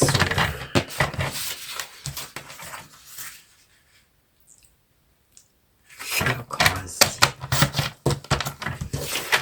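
Paper being handled and cut on a paper-cutting board: rustling, scraping and clicks, stopping for about two seconds in the middle before starting again.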